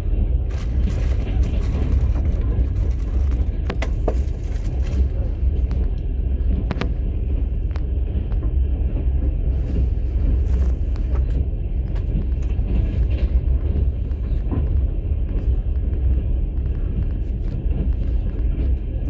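Passenger train running, heard from inside a platskart sleeper car: a steady low rumble with scattered clicks and knocks.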